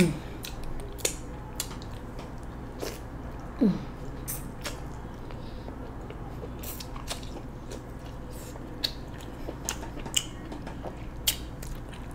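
Close-miked wet chewing and lip smacking of sauce-covered king crab meat, with sharp mouth clicks scattered throughout. There are two short falling "mm" hums, one at the start and one about four seconds in.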